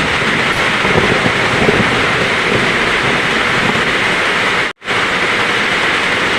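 Heavy rain falling steadily with a low thunder rumble underneath. The sound cuts out completely for a split second about three-quarters of the way through, then the rain resumes at once.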